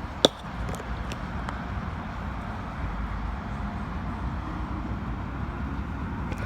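Steady low outdoor rumble, with one sharp click about a quarter of a second in and a few fainter ticks just after.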